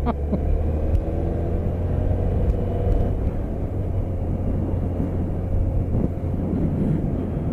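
BMW K1200RS motorcycle's inline-four engine running steadily on the move, a continuous low rumble. Its faint tone eases slightly lower over the first few seconds.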